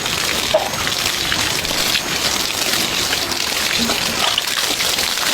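A steady sound of water, with small irregular splashes through it.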